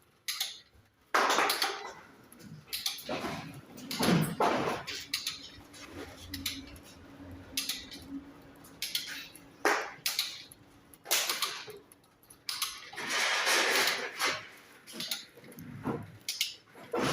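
Irregular clinks, knocks and clatters of metal tools and fittings being handled, with a faint steady hum in the middle for several seconds.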